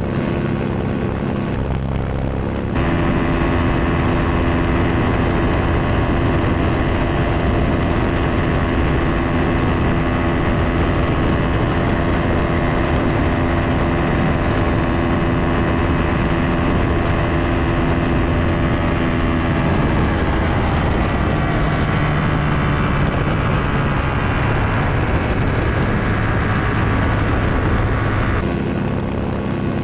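SkyPup ultralight's small engine and propeller running steadily in flight. Its pitch shifts a little about two-thirds of the way through, and the sound changes abruptly about three seconds in and again near the end.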